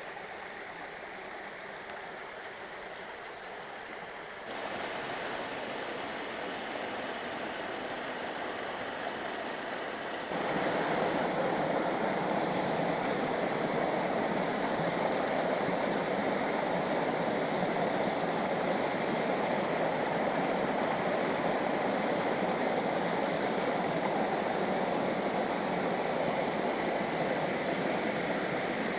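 Rushing water of a stream running down a riverbed, a steady even rush that jumps louder about four seconds in and again about ten seconds in.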